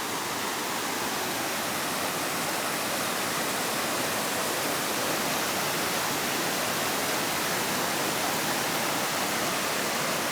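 A small waterfall: steady rushing and splashing of falling water.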